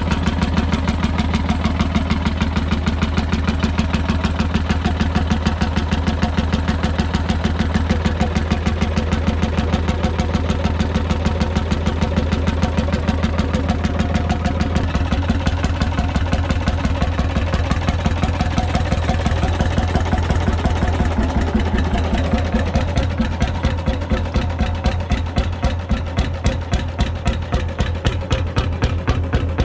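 A 9/11 hp McDonald PB two-stroke 'super diesel' engine running with an even, steady beat. In the last third its firing beats grow further apart and more distinct as the engine slows.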